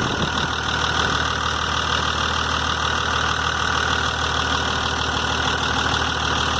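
Kobelco K905A excavator's six-cylinder diesel engine running steadily, with no change in speed.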